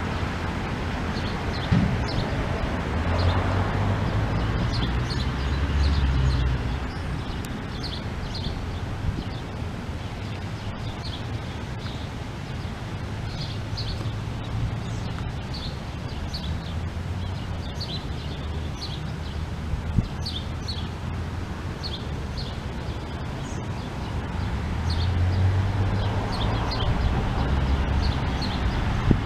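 Birds chirping over and over in short, high notes, over a low rumble of wind on the microphone that swells in the first few seconds and again near the end.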